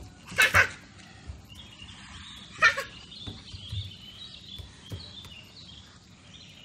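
Small birds chirping steadily in the background, broken by two loud, short, sharp cries about two seconds apart.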